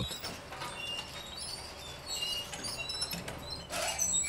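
Small birds chirping: short high chirps scattered throughout, over a faint steady low background, with one brief noisy burst near the end.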